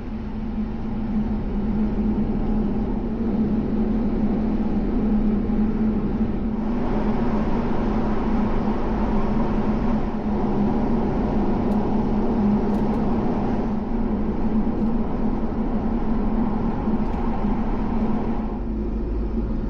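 Car being driven, heard from inside the cabin: a steady engine and road-noise drone. The higher hiss gets brighter about six seconds in and drops back near the end.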